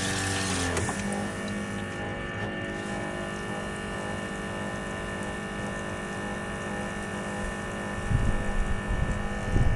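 Small electric water pump running steadily with water flowing through the hose to a propane tankless heater, a constant motor hum that is not shutting off on its own. A low rumble joins near the end.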